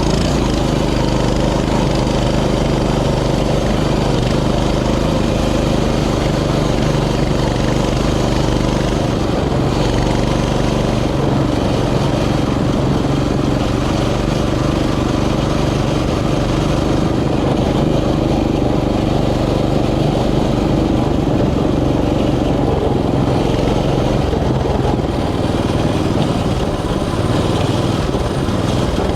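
Mini bike's small engine running at a fairly steady speed while being ridden, with a broad rushing noise over it.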